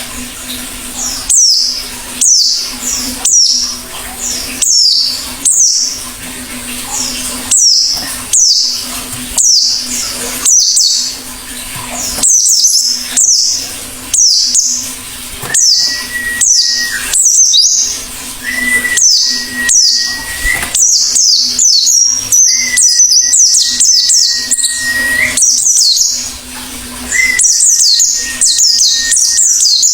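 A white-eye (pleci) calling over and over: short, high chirps that drop in pitch, about one a second, coming thicker from about halfway. From about halfway there are also four long, level whistled notes, each held one to three seconds, under which runs a faint steady low hum.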